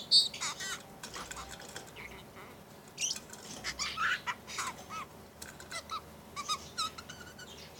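Pet budgerigar chattering: a run of short chirps and warbling squeaks that come and go, loudest about three to four and a half seconds in.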